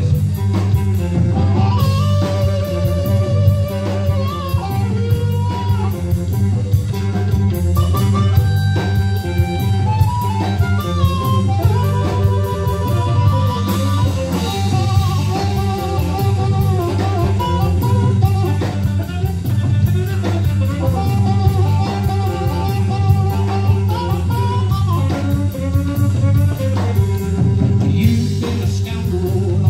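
A live band playing a slow blues instrumental passage: lead guitar playing bent, wavering notes over bass and drum kit.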